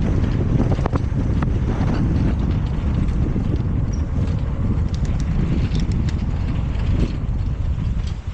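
Wind buffeting the microphone of a camera on a moving bicycle, a steady low rumble, with a few light clicks and rattles.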